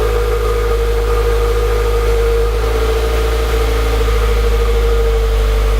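2015 Subaru WRX's turbocharged flat-four engine idling steadily through a muffler-delete exhaust.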